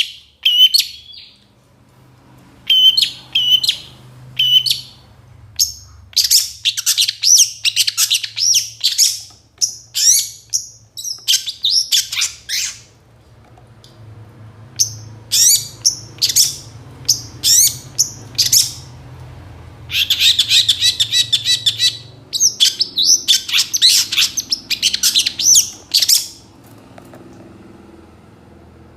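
Long-tailed shrike (pentet) singing vigorously in rapid bursts of high chirps, whistles and imitated calls of other birds, with a fast rattling run of notes about twenty seconds in and a short pause near the end.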